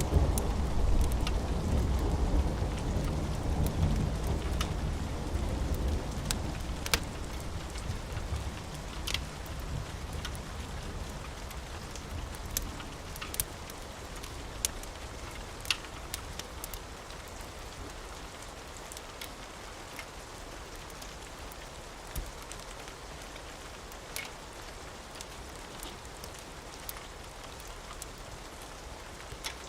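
Steady rain with a rumble of thunder that dies away over the first several seconds, and scattered sharp clicks throughout.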